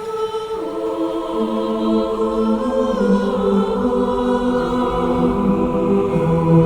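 Film-score music: sustained choir chords that change in steps, with more voices joining after about half a second as the sound builds.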